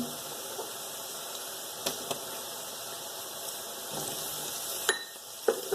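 Chopped onions and minced garlic sizzling in hot oil in a pan, a steady hiss, with a few light clicks near the middle and towards the end.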